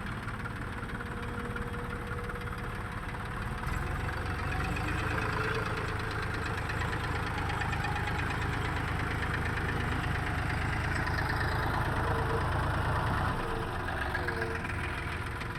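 A heavy diesel engine running steadily, growing louder from about four seconds in and easing back about thirteen seconds in.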